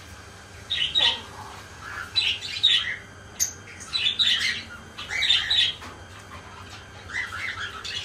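Small caged birds chirping and squawking in short clusters about every second or so, with one brief very high peep about three and a half seconds in.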